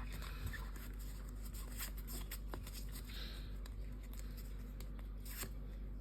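Faint rustling and light clicks of a Pokémon trading card booster pack being handled and opened, with short soft rustles about three seconds in and near the end, over a low steady hum.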